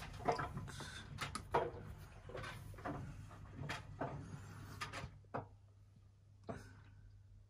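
A run of irregular knocks and clicks with some rustling, as of things being handled and set down, over a steady low hum. They thin out after about five seconds, with one last knock near the end.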